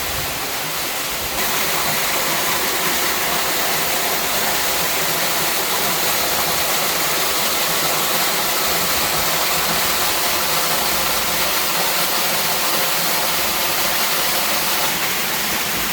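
Waterfall: a steady rush of falling water that gets louder about a second in.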